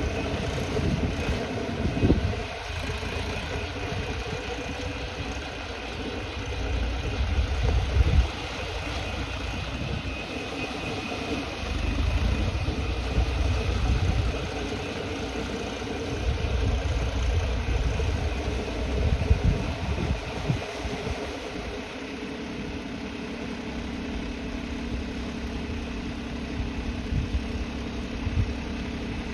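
Massey Ferguson 246 tractor's diesel engine running steadily, with heavier low rumbles that swell and fade every few seconds.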